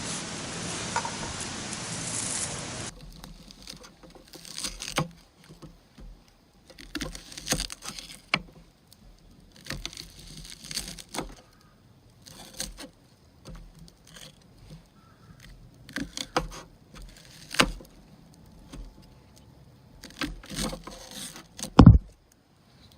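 A steady hiss for the first few seconds, then scattered small clinks, knocks and rustles of objects being handled, with one heavy thump near the end.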